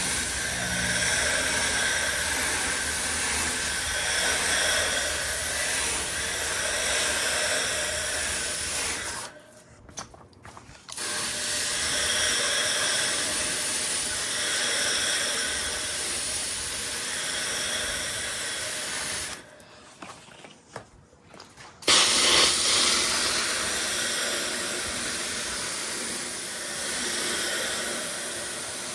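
Water spraying from a hose nozzle onto a Trane XL heat pump's outdoor unit to clean it: a steady hiss that cuts off abruptly twice, about ten and twenty seconds in, for a second or two each time.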